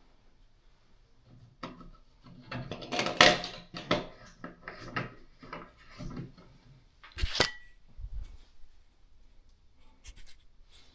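Small metal plumbing parts of a sink pop-up drain clinking and knocking as they are handled and screwed together, in irregular clicks. There is a sharp metallic strike about seven seconds in that rings briefly.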